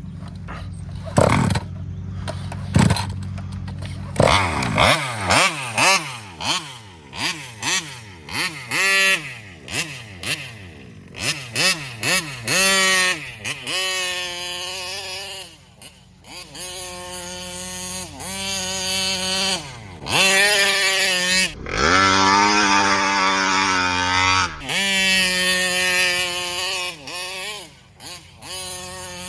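Taylor 35cc reed-valve two-stroke engine in a large RC car revving up and down in many short throttle blips, then held at higher revs several times with a sudden drop near the middle. It does not come up on the pipe, which the owner takes for fuel starvation at high RPM from the carburetor.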